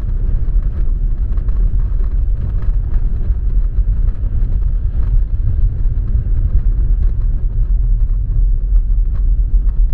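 Steady low road and engine rumble inside the cabin of a car being driven.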